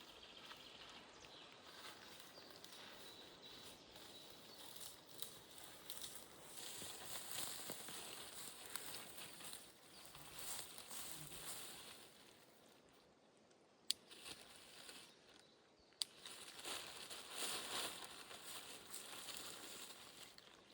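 Faint rustling of undergrowth being handled and brushed through, coming and going in swells, with two sharp snaps about two seconds apart past the middle.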